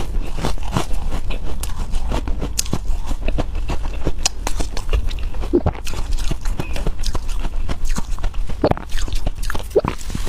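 Freezer frost being bitten and chewed close to the microphone: a dense, continuous stream of sharp crunching and crackling.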